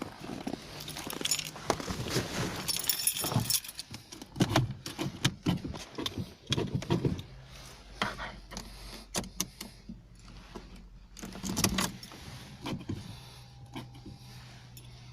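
A bunch of car keys jangling, with repeated sharp clicks and knocks as they are handled before the engine start. A faint steady low hum joins in the last few seconds.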